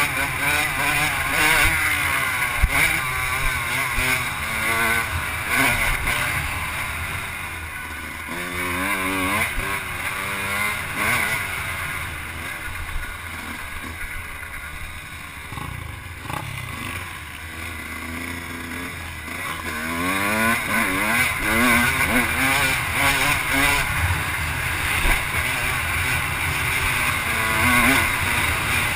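Off-road vehicle engine on a dirt track, revving up and down with repeated rising pitch sweeps as it accelerates, over a rough steady rumble. It goes quieter for a while mid-way, then louder again about two-thirds of the way in.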